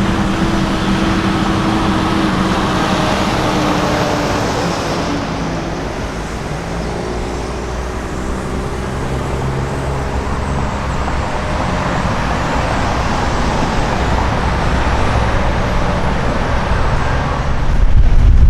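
Road traffic with heavy trucks driving past, diesel engines running over steady tyre noise. A louder low rumble comes in near the end.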